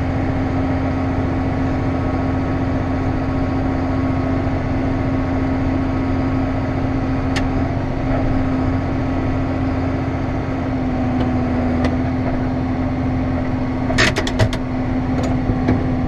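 Vehicle engine idling steadily with a constant hum, and a few sharp clicks about fourteen seconds in.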